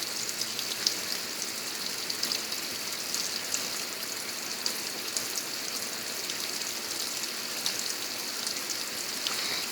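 Brastemp Ative 11 kg top-load washing machine filling: water sprays steadily from its jets onto the clothes in the drum, a continuous hiss with scattered splashes and drips, while it doses liquid detergent.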